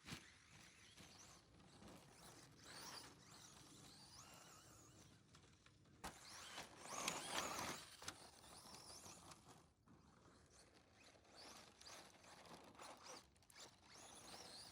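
Faint whine of a Tekno SCT410SL electric RC short course truck's motor, rising and falling in pitch with the throttle as it drives around the snow track, loudest about seven seconds in as it comes closer.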